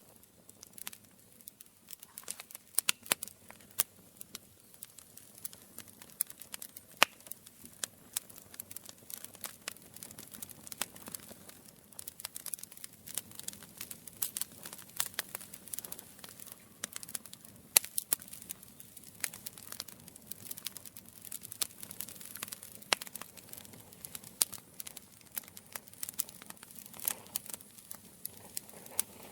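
Campfire crackling: a steady run of irregular sharp snaps and pops, a few of them much louder than the rest, over a faint low rush of the fire.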